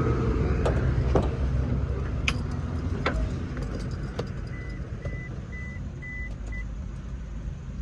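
Toyota Prius being started after an oil fill with 20W-50: a steady low hum that slowly fades, a few sharp clicks in the first half, and five short high beeps in the middle, typical of the car's dashboard chime.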